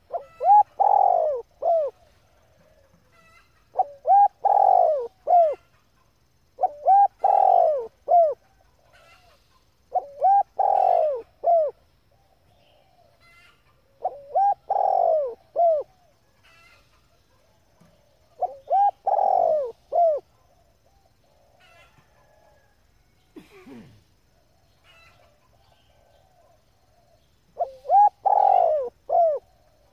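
Spotted dove cooing: a short phrase of coos repeated seven times, every three to four seconds, with a longer pause about two-thirds of the way through. It is a female's call of the kind played to stir up a male decoy dove.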